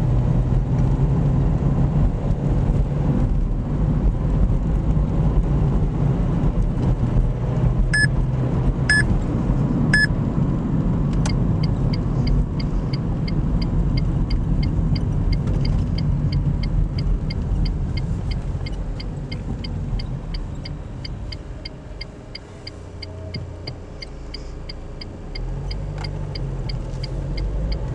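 Inside a diesel car on the road: steady engine and road rumble, with three short electronic beeps about 8 seconds in. These are followed by an even ticking about twice a second. Partway through, the rumble drops away as the car slows, then the engine picks up again as it pulls off.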